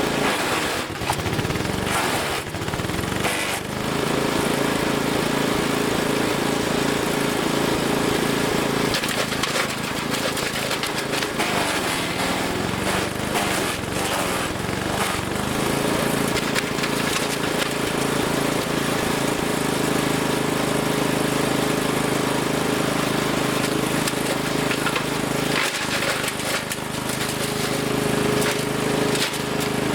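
Wood chipper engine running under load while branches are fed in. Its pitch sags and wavers for several seconds at a time as the feed slows it, then steadies, with scattered cracks and knocks from the wood being chipped.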